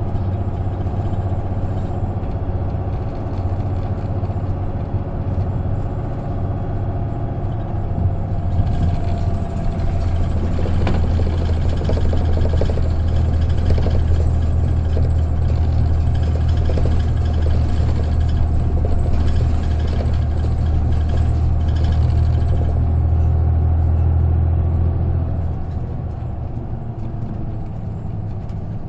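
Isuzu KK-LR233J1 non-step bus heard from inside the cabin, its engine running with a steady low drone. About a third of the way in the engine grows louder and fuller, and it drops back near the end.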